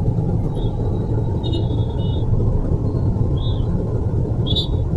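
A car driving: a steady low rumble of road and tyre noise, with a few faint short high chirps.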